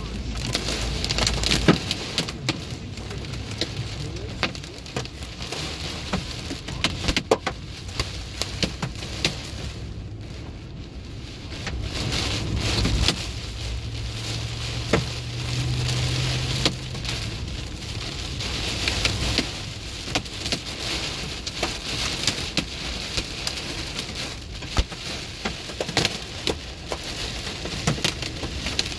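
Large hailstones, about 1.5 inches across, pelting down with heavy rain: many sharp separate knocks and cracks over a steady rain hiss. A low rumble swells and fades around the middle.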